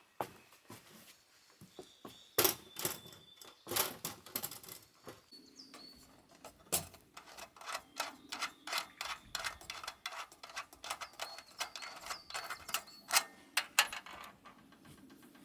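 Irregular sharp clicks and knocks of hard objects being handled, several a second at times, with a bird whistling faintly a few times.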